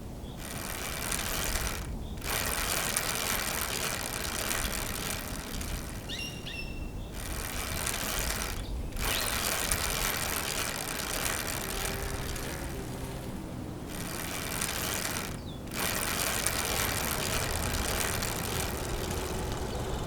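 Noise of a bicycle being ridden: a steady rushing hiss from the moving bike that drops out briefly about half a dozen times.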